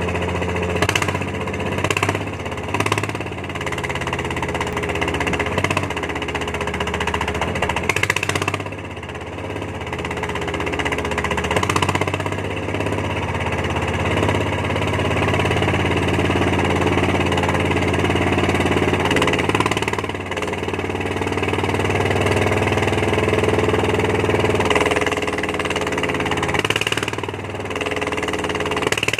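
An engine running throughout, its speed shifting up and down at times, with several sharp knocks or clanks, the clearest about a second, two, three and eight seconds in.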